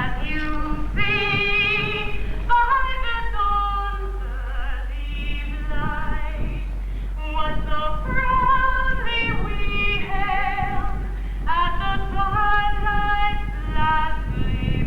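A woman singing held, wavering notes in a song, over a steady low hum.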